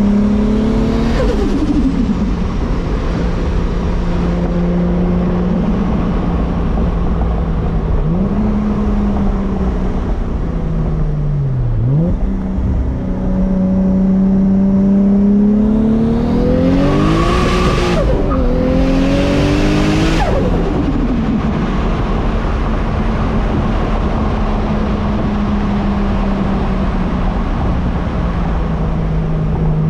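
Turbocharged 2JZ inline-six of an MK4 Toyota Supra running at steady revs, dipping and picking up again through the curves. About sixteen seconds in it pulls hard, revs climbing with a turbo whistle and hiss, then backs off about twenty seconds in.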